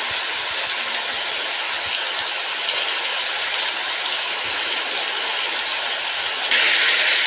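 Steady hissing noise with no clear tone or rhythm, which gets louder and brighter about six and a half seconds in.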